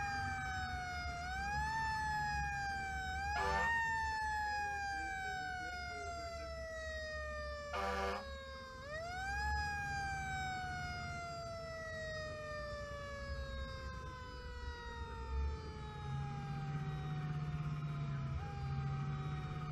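Emergency vehicle siren on a responding rescue rig. Its pitch rises quickly, then winds slowly down, and is wound up again three times, with the last fall lasting about nine seconds. Short horn blasts come about three and a half and eight seconds in, over a steady low engine rumble.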